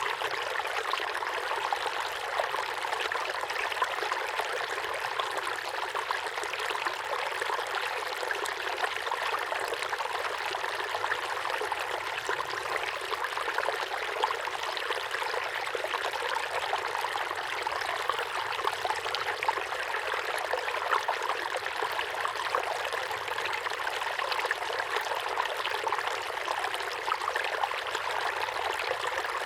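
Small waterfall pouring steadily into a pond: a constant splashing rush of falling water with fine, quick splashes.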